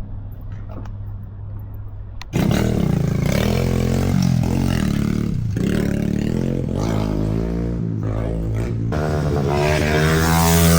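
A low steady engine hum. About two seconds in, a much louder small motorcycle engine cuts in, its pitch rising and falling as the throttle is blipped and revved.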